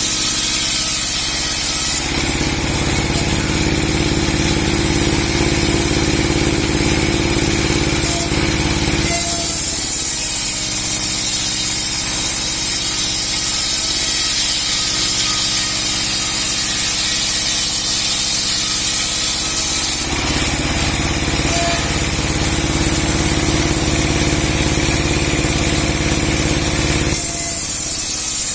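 30-horsepower sawmill with a 60 cm steel blade running and sawing a large log. A heavier low rumble comes in two long stretches, from about two to nine seconds in and from about twenty to twenty-seven seconds in, over a steady high hiss.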